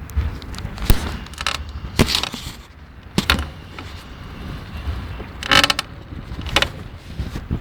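Crackling creaks from a 2011 GT Avalanche mountain bike under load: about seven sharp cracks at irregular intervals, some doubled into short crackles, over a low rumble. The source of the crackle is unknown to the owner on a bike only a month old.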